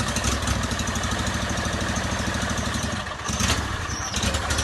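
Small engine being cranked over with a steady pulsing chug, not catching. The cranking stops about three seconds in, then comes back in two short bursts.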